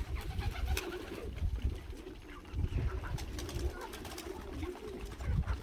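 Domestic pigeons cooing in a loft: low, repeated coos, with a few faint clicks.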